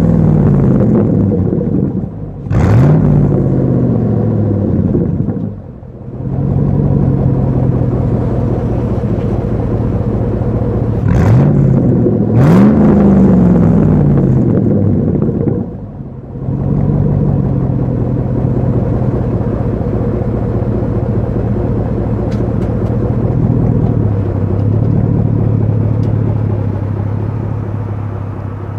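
2008 Chevrolet Silverado's straight-piped exhaust, with no muffler, idling with a deep, even drone. The throttle is blipped four times, at the start, about two seconds later, and twice close together around the middle, each rev rising sharply and falling back to idle. Near the end the idle settles a little lower.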